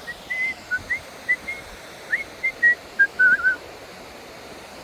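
A person whistling a quick, tuneful run of short notes that stops about three and a half seconds in, over a steady rush of water.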